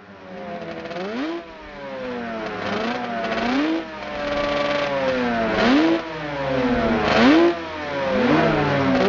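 Off-road motorcycle engine being revved, its pitch jumping up with each throttle blip and falling away slowly, several times over.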